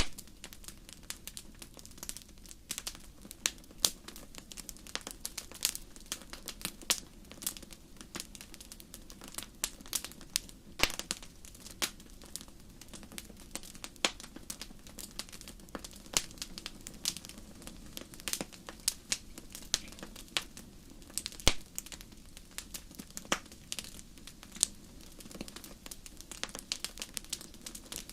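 Wood fire in a fireplace crackling: irregular sharp pops and snaps, several a second, over a low steady hiss of burning.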